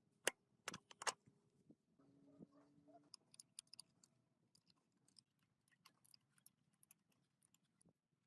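Near silence broken by small clicks: three sharper clicks in the first second, a faint brief tone about two seconds in, then a scatter of light, faint ticks.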